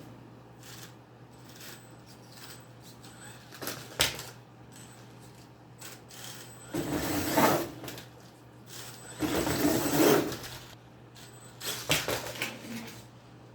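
A small brushless electric RC monster truck driving in short bursts on cardboard, its tires and gears whirring and clattering, with a single sharp knock about four seconds in.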